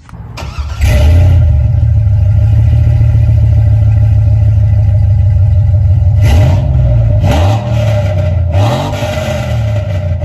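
Chevrolet Silverado SS 6.0 L V8 running loud through long-tube headers and an aftermarket exhaust, a steady deep rumble that comes in within the first second, then blipped several times in quick revs over the last few seconds.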